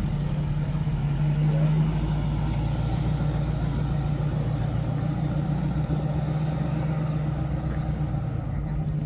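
A car engine running steadily at idle, a low, even hum that swells slightly about a second and a half in.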